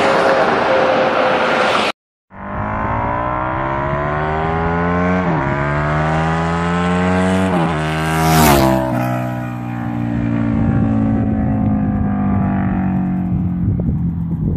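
Sport bike engine accelerating hard after a brief break about two seconds in, its rising note broken by two quick upshifts. It passes close by just past the halfway point, and the pitch drops as it moves away.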